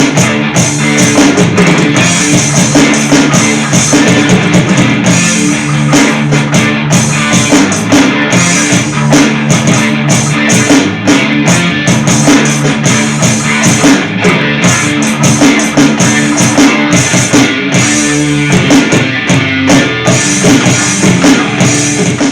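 Loud rock music with a drum kit and guitar, playing steadily on a regular beat.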